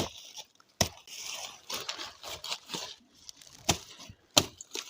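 A blade chopping into the stem of a small banana plant: four sharp strikes spread out, with rustling in between.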